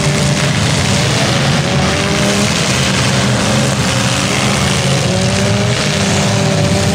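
Demolition derby car engines running loudly together in a dense, steady din, their pitch wavering slightly.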